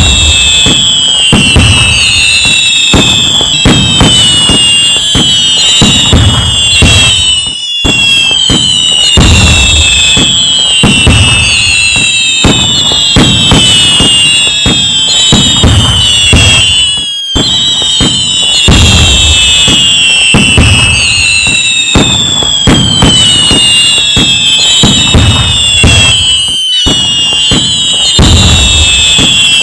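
Loud fireworks: dense crackling and bangs under many overlapping whistling tones that fall in pitch. The same stretch of sound repeats, breaking off briefly and starting over about every nine and a half seconds.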